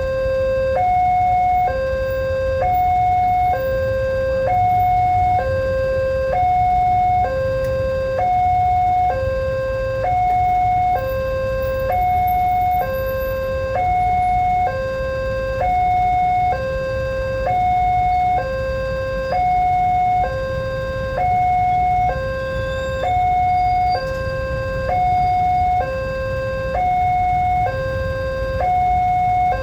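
Railway level-crossing warning alarm sounding a steady two-tone signal, a lower and a higher tone alternating about once a second, over a low rumble. It warns that a train is approaching and the barriers are closing or closed.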